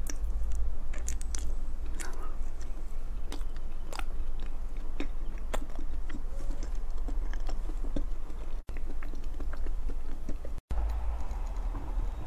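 Close-miked chewing and biting of soft matcha-dusted cake: wet mouth clicks and lip smacks over a steady low hum. The sound cuts out briefly twice near the end.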